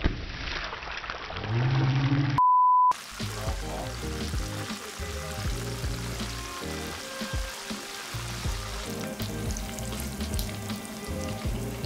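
Breaded testicles sizzling in hot frying oil in a pan. About two seconds in, a sudden loud sound is cut off by a half-second censor bleep, and after it slow background music plays over the continuing sizzle.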